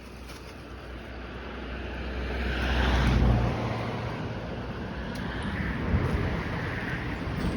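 A motor vehicle passing close by on the road: its engine and tyre noise build up, peak about three seconds in, then fall away as it goes past.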